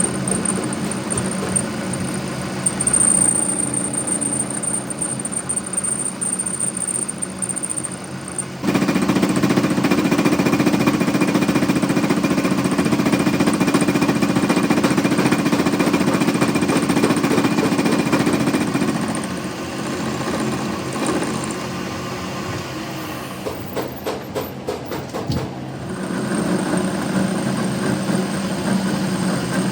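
Continuous machine noise, getting louder suddenly about nine seconds in, easing off near twenty seconds, then picking up again near the end.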